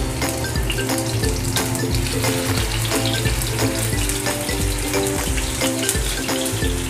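Beef chapli kabab patties sizzling and crackling as they shallow-fry in a little oil in a pan, over steady background music.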